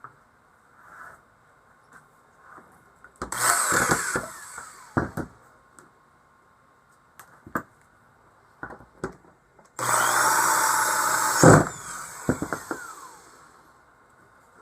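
A power drill working in wood in two bursts, one about a second long and a longer one of about two seconds near the middle, each spinning down with a falling whine, with a few handling knocks between.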